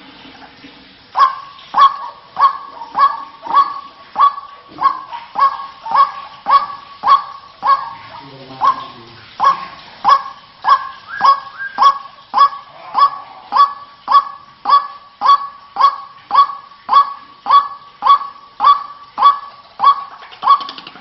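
White-breasted waterhen (ruak-ruak) calling over and over, a steady series of short, loud, honking notes at about two a second, starting about a second in.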